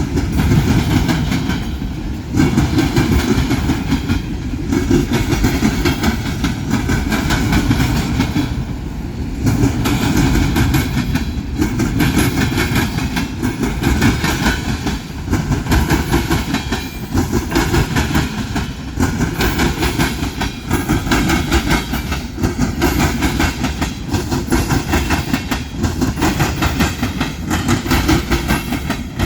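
Freight train rolling past at close range: a steady clatter of wheels on rail, with the loudness dipping and swelling every few seconds as the cars go by.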